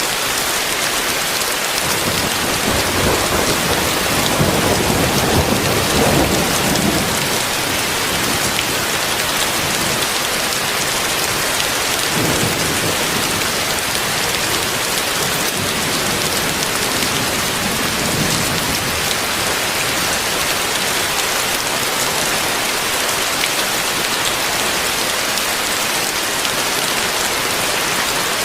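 Heavy rain falling with a steady dense hiss. A low rolling rumble of thunder swells from about two seconds in and fades by seven seconds, with fainter rumbles later on.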